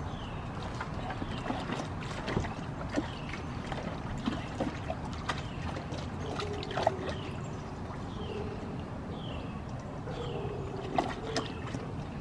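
A small bird chirping: short falling chirps about once a second, with scattered clicks and knocks.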